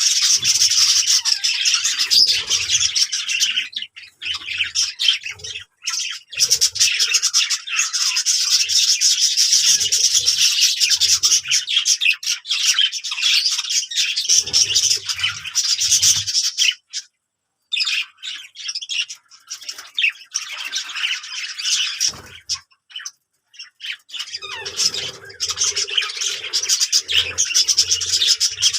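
Pet budgerigars chattering and warbling, a dense run of fast chirps and squawks with a few short breaks, one a brief silence about two-thirds of the way through.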